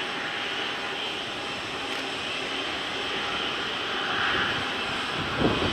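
Boeing 747-400 freighter's jet engines idling during pushback: a steady rushing noise with a faint high whine. A brief low thump about five seconds in.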